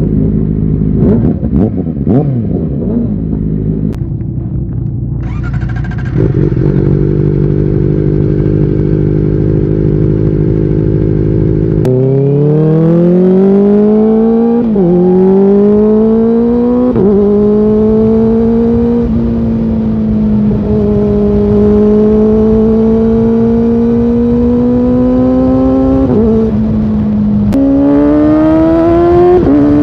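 Kawasaki Ninja ZX-4R's inline four-cylinder engine running steadily, then accelerating hard. It climbs through the gears, its pitch rising and dropping back at each of three quick upshifts. It settles into a steady cruise, then shifts and pulls again near the end.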